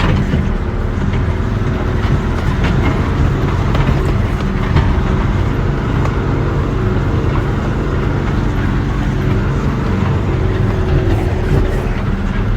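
Dump truck's diesel engine running steadily under heavy load as the truck ploughs through soft wet sand.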